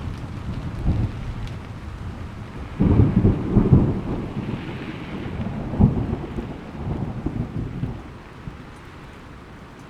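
Thunder rumbling over steady rain, swelling loudest about three to four seconds in with a sharper peak near six seconds. The thunder dies away near the end, leaving the even hiss of rainfall.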